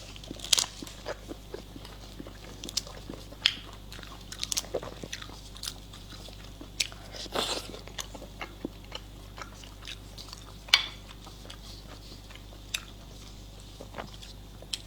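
Close-miked eating sounds: a person biting and chewing food, with irregular crisp crunches and clicks. The sharpest crunch comes about eleven seconds in.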